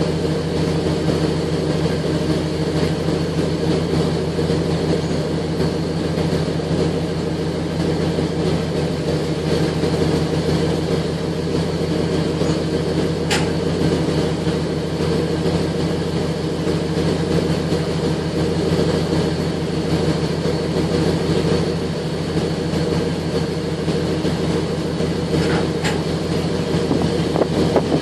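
Holden VS V8 wagon's engine idling steadily through its exhaust system, a constant low note that neither rises nor falls. A couple of faint clicks sound over it.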